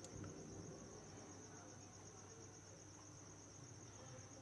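Near silence: room tone with a faint, steady, high-pitched insect trill.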